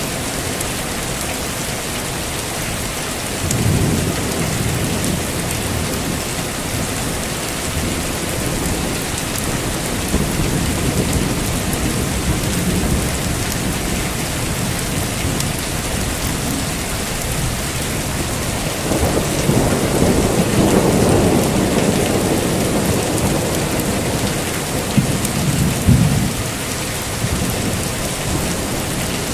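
Heavy rain falling steadily, with rolls of thunder: a rumble about 3.5 s in, another around 10 to 13 s, a longer, louder roll from about 19 to 23 s, and two sharper claps near 25 and 26 s.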